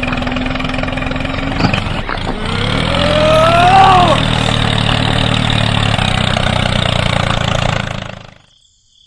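Motor of a homemade mini tractor running steadily under load. There is a sharp click about 1.7 s in and a rising tone around three to four seconds in. The motor cuts off about eight seconds in.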